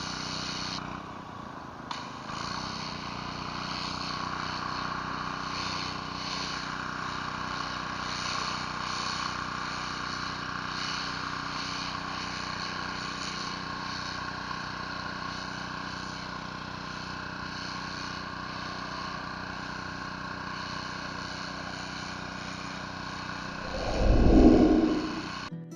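Gas pressure washer engine running steadily, with water spraying from a surface cleaner on concrete and a faint regular pulsing. A brief, loud, low rumble comes about a second and a half before the end.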